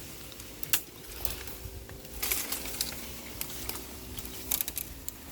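Twigs and brush cracking and rustling in scattered sharp clicks, over a faint steady low hum.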